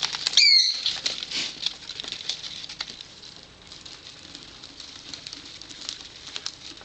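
Small pet parrots chewing and shredding toys, a scatter of small crackles and clicks, with one short, high chirp about half a second in.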